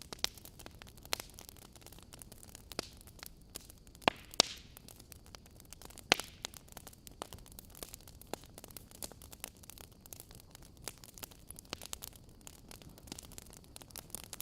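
Wood fire crackling in a fireplace: irregular sharp pops and snaps over a faint steady hiss, with a few louder pops near the middle.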